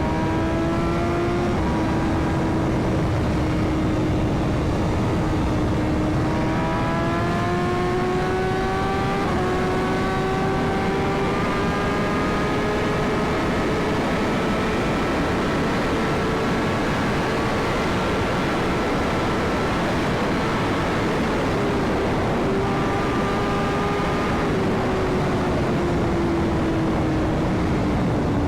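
BMW S1000RR inline-four engine running at highway speed, its pitch climbing slowly over the first ten seconds, holding steady, then dipping and rising again near the end. Heavy wind rush on the microphone underneath.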